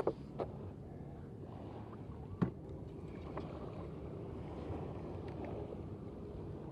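Steady low rumble of wind and water, with a few sharp clicks and knocks, the loudest about two and a half seconds in.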